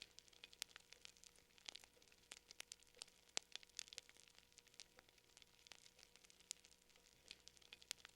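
Fire crackling quietly: irregular sharp pops and snaps, several a second, over a faint steady hum.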